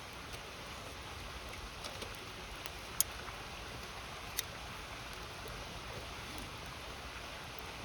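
Wood fire crackling, with a few sharp pops about three and four and a half seconds in, over the steady rush of a river.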